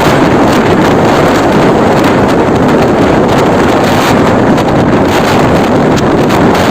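Heavy wind buffeting the microphone over the steady noise of road traffic, with no distinct engine note or horn standing out.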